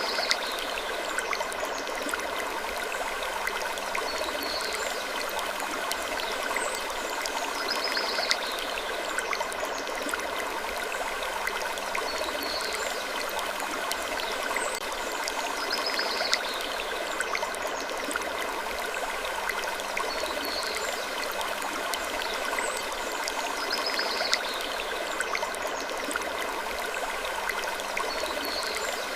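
Looped sleep-ambience track: a steady rushing hiss like flowing water, with short high wooden creaks that recur about every eight seconds.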